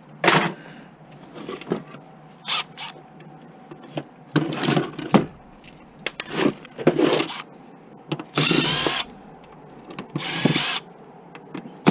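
Power drill-driver backing screws out of an electronics casing in a series of short bursts, the longest lasting under a second, with small knocks and clicks of parts being handled between them.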